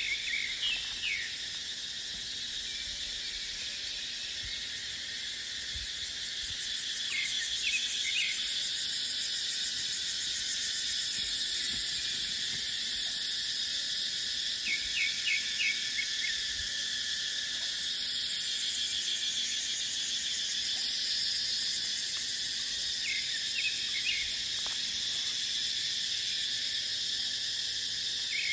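A chorus of cicadas buzzing steadily and shrilly, swelling into a louder fast pulsing for a few seconds. Short clusters of high chirps break in four times.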